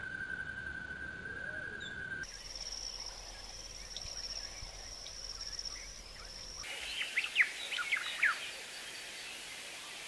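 Wild birds: a steady, unbroken high trill, which changes to a higher-pitched trill about two seconds in, then a quick run of sharp chirps about seven seconds in, the loudest part.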